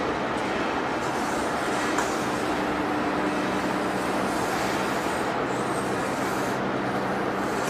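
Steady machinery noise with a low hum underneath, a faint tone briefly in the middle and a single click about two seconds in.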